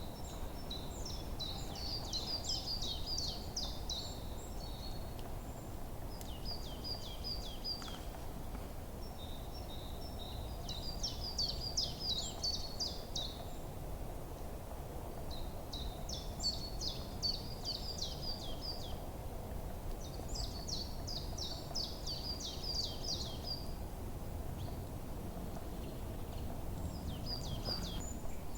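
Forest bird song: a songbird repeating a quick, high phrase of rapid falling notes every few seconds, about six times, over a steady low background rumble.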